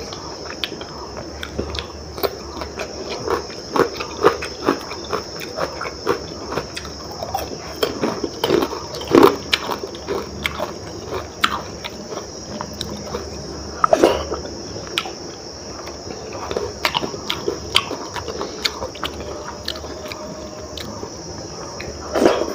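Close-up eating sounds of khichdi eaten by hand: wet chewing, lip smacks and irregular mouth clicks, with the louder smacks about nine and fourteen seconds in. A steady high hiss lies under them.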